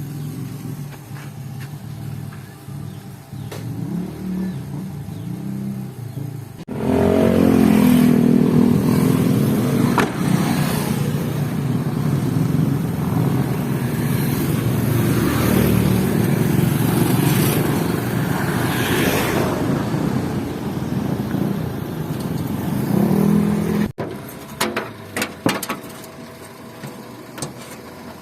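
A motor vehicle's engine running. It is steady at first; after an abrupt change about a quarter of the way in it runs louder with its pitch rising and falling. It cuts off sharply near the end, leaving scattered clicks and taps.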